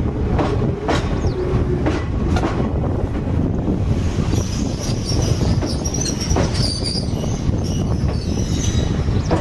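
Izuhakone Railway 3000-series electric train rolling slowly past as it arrives, with a steady rumble. Its wheels click sharply over rail joints several times in the first three seconds. A high squeal sets in about four and a half seconds in as it slows.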